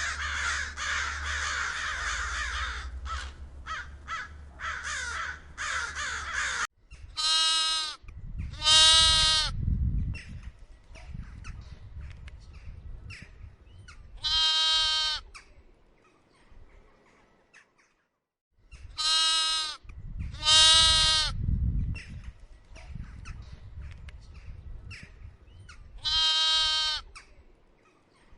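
Many birds chattering and cawing together, cut off suddenly about seven seconds in. Then a bleating animal gives six long, wavering cries, in a pattern of a pair, a single, a pair and a single.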